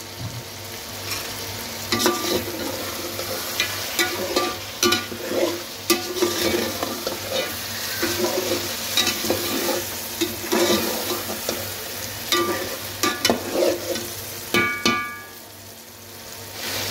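Chicken and vegetables frying in ghee and sauces, sizzling steadily, while a spoon stirs and scrapes through them, with repeated clicks and scrapes against the pan. About 15 seconds in there is a brief ringing metallic clink, and the sizzle drops for a moment before it picks up again.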